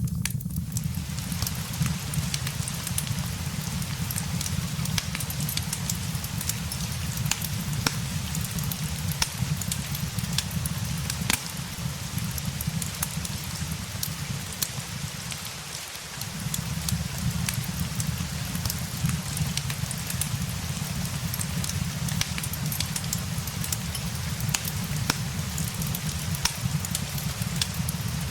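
Steady rain with a low, even rumble underneath, mixed with a fireplace crackling and giving off scattered small pops.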